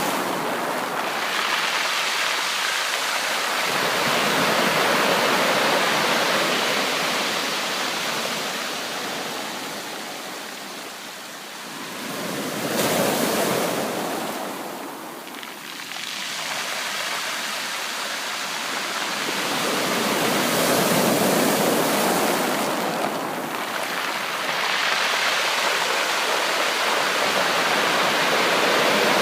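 Sea waves breaking and washing up on the shore, the rush swelling and ebbing several times, with one sudden surge about halfway through.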